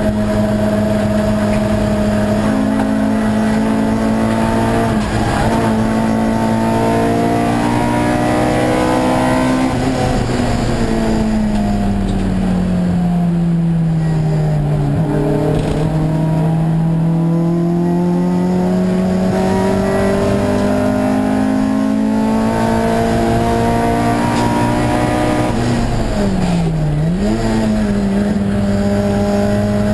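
Honda Civic EG race car's 1.8-litre four-cylinder engine heard from inside the stripped cabin, running at steady high revs. It drops in pitch about ten seconds in, climbs slowly back over the next several seconds, and makes a brief sharp dip and recovery near the end.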